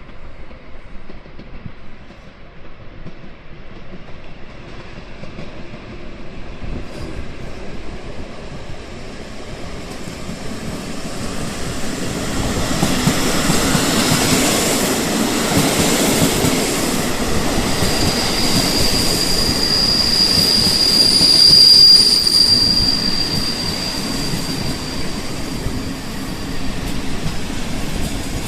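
EP08 electric locomotive hauling a TLK passenger train, its rumble and wheel noise building as it draws near. About two-thirds of the way in a steady, high-pitched wheel squeal sets in and lasts several seconds before fading.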